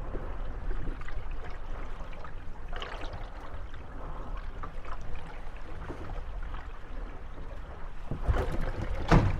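Moored gondolas rocking on waves, water lapping and sloshing against their hulls, with creaks and knocks as the boats bump and rub against each other. A few knocks come about three seconds in, and a cluster of louder knocks comes near the end.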